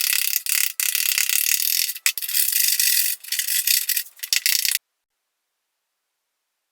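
Rapid rattling, scraping clatter of a metal tool chipping hardened seam sealant off the bottom edge of a steel car door skin. It cuts off suddenly about five seconds in.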